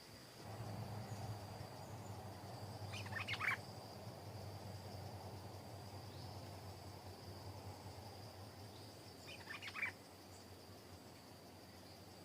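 Two short calls from a stripe-throated bulbul, about six seconds apart. A steady, high insect drone continues throughout, and a low hum underneath stops about ten seconds in.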